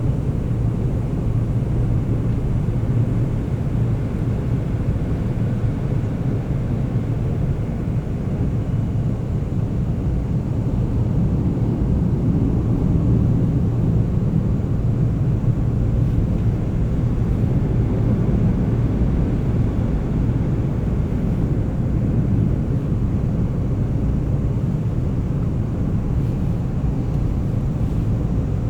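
Steady low rumble and rolling noise of a Seoul subway express train running between stations, heard from inside the passenger car.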